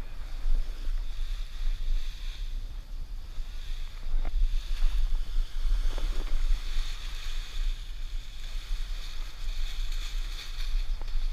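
Strong wind buffeting the microphone: a steady low rumble with hiss above it, and a few faint knocks.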